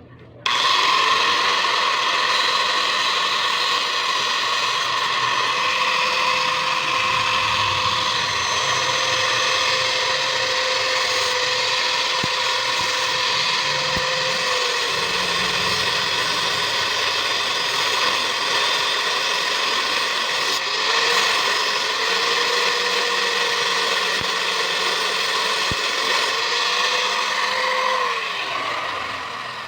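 Electric power tool running steadily with a high whine. Its pitch dips and recovers several times as it is loaded against the work. It starts abruptly and fades out near the end.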